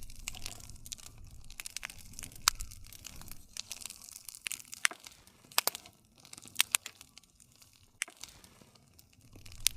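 Wood campfire burning: a steady crackle with scattered sharp pops from the burning wood, the loudest about two and a half seconds in, over a low rumble of the flames.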